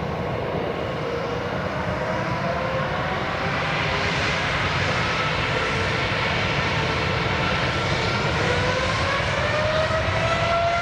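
Jet engines of a Boeing 787-8 Dreamliner running on departure: a steady roar with a whine whose pitch sags slightly, then climbs from about eight seconds in as the engines spool up.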